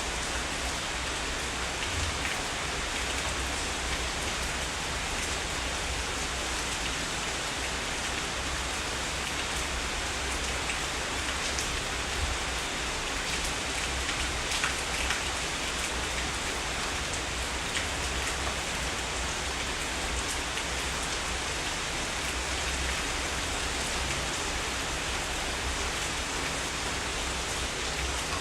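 Heavy rain falling steadily, a dense even hiss, with a few louder drop hits near the middle.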